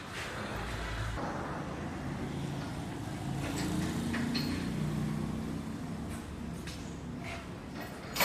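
A vehicle engine running steadily, its pitch rising a little about three and a half seconds in and easing back, with a few light clicks and knocks.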